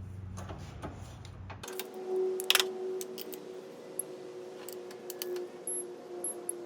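Scattered light metallic clicks and taps of a spark plug socket and extension being worked as a spark plug is threaded back into the engine. A faint steady hum lies underneath.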